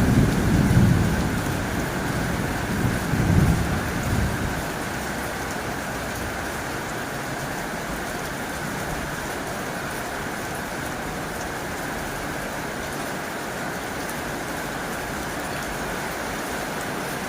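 Heavy rain drumming on a tin roof, a steady hiss. Two low rumbles come in the first four seconds, the first right at the start and the second about three seconds in, and they are the loudest things heard.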